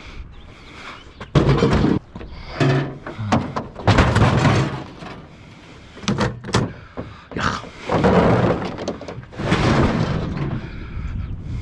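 Bulky curbside junk being handled and loaded for scrap: a run of loud, irregular thunks, clanks and scrapes, several seconds apart.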